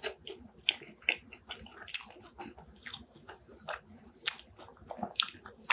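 A person chewing a mouthful of chicken shawarma and fries, an irregular run of short, sharp mouth clicks and smacks several times a second.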